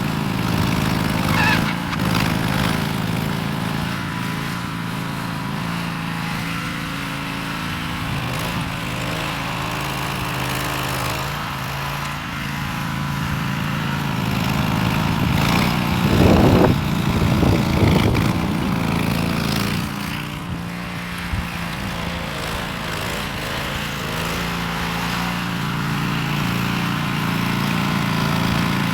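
Small gasoline engine running steadily under load, with a louder, rougher patch about two-thirds of the way through.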